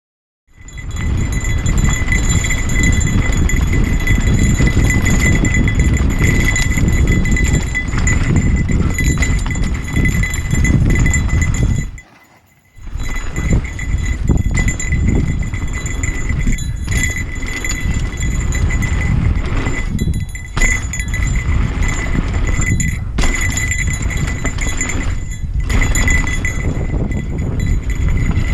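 Off-road vehicle running along a rough trail, recorded on an onboard camera: a heavy, continuous rumble with a steady high whine. The sound cuts out for about half a second near the middle.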